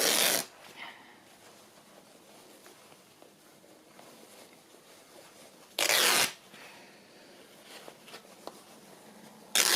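Fabric being torn by hand in short rips, three in all: near the start, about six seconds in, and near the end.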